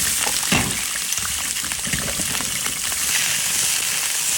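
Rinsed goose pieces frying in hot home-pressed soybean oil in an iron wok: a loud, steady sizzle with crackles and spatters.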